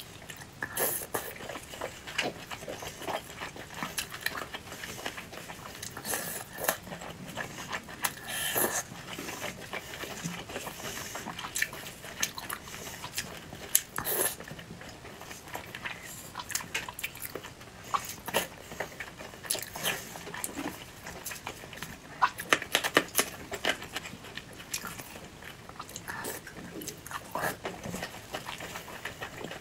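Close-miked eating: a woman chewing and biting soft, saucy food such as boiled egg, with wet mouth smacks and short irregular clicks coming in uneven clusters.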